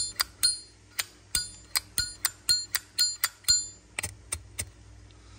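A Zippo lighter's hinged metal lid is flicked open and snapped shut over and over, a quick series of sharp clicks, each with a short metallic ping, about four or five a second. A few fainter clicks come near the end.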